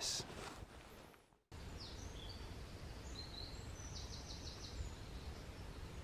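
Woodland birdsong, faint: scattered short high chirps, then a quick run of about six notes about four seconds in, over a steady low background rumble.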